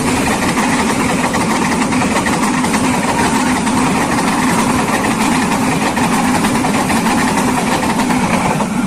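A large vehicle engine running steadily and loud, close by, with a fast, even pulsing.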